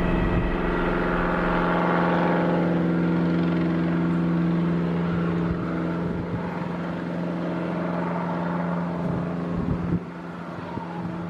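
Small helicopter in flight, its engine and rotors giving a steady droning hum that slowly fades, dropping in level about ten seconds in.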